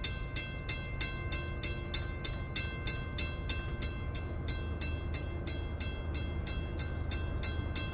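Railroad crossing bell ringing in quick, even strokes, about three to four strikes a second, over a low train rumble.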